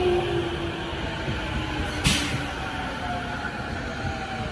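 JR E231 series electric train rolling past along a station platform at moderate speed: a steady whine from its traction motors over the rumble of wheels on rail, with one short sharp hiss or clank about two seconds in.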